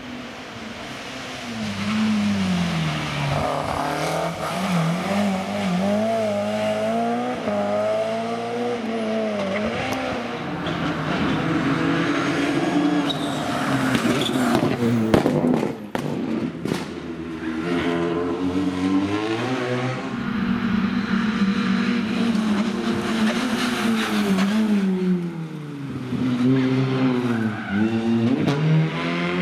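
Rally cars at full attack on a special stage, engines revving hard and dropping back repeatedly through gear changes and braking, with tyre squeal. A few sharp cracks come about halfway through.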